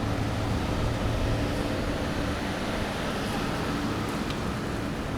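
Steady low rumble of road traffic, an engine hum over a wash of noise.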